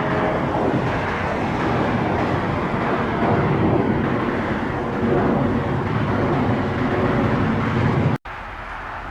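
Jet airliner engines running loud and steady, a deep rushing rumble. It cuts off abruptly a little after eight seconds in and comes back as a much quieter, steady background rush.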